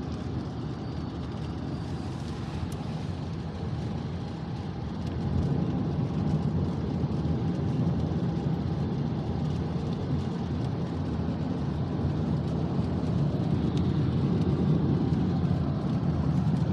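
Steady road and engine noise inside a moving car's cabin, tyres on a wet road in hard rain, getting louder about five seconds in.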